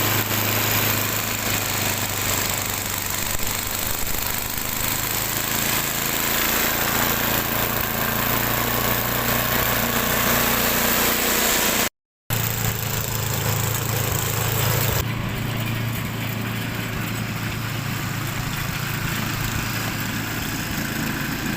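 Snow blower's small engine running steadily, with a constant hum under a loud mechanical noise. The sound drops out briefly just before the middle and comes back changed in character a few seconds later.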